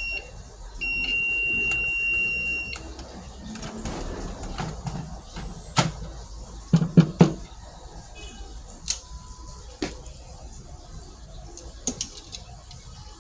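UPS alarm beeping: a short beep, then one long high beep lasting about two seconds. After it come scattered sharp clicks and knocks, a cluster of them about seven seconds in.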